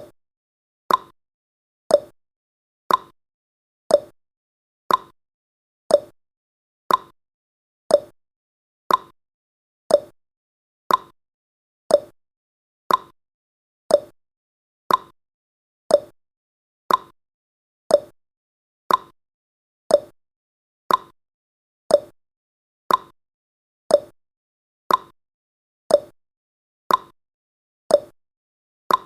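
Clock-style tick-tock sound effect ticking once a second, each tick alternating between a higher and a lower pitch, with silence between ticks, counting off the seconds of a countdown timer.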